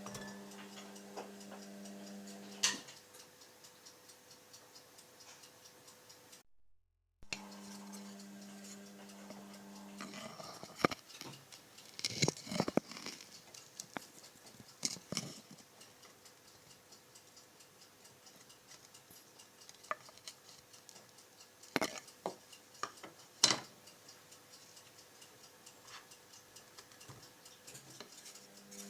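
Scattered clicks and knocks of kitchen handling, such as utensils and a jar, while lemons are prepared. A steady low hum sounds for the first few seconds and again around eight to ten seconds in.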